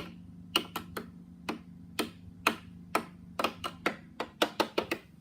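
Small hard plastic clicks of a Playmobil figure being tapped up a toy staircase, about twenty sharp taps that come faster in the second half, over a low steady hum.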